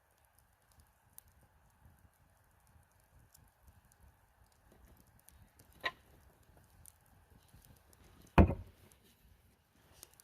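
Campfire crackling faintly with scattered small ticks, a sharp pop about six seconds in, and one loud, short thud a little past eight seconds in.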